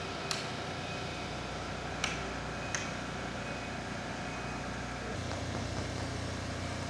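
Steady motor hum from a CNC-controlled sewing machine rig, with three sharp clicks in the first three seconds; the low part of the hum changes about five seconds in.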